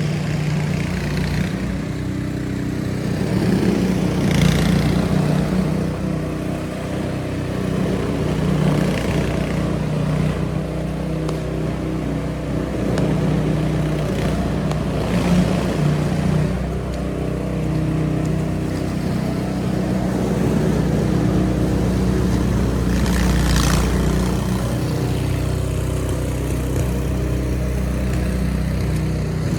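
City street traffic: a steady low rumble of vehicle engines, with a few cars passing.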